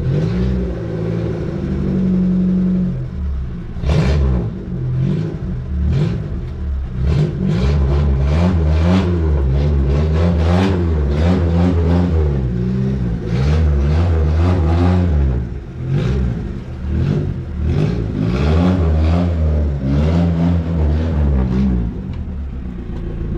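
Suzuki Samurai's 1300cc engine being revved up and down over and over.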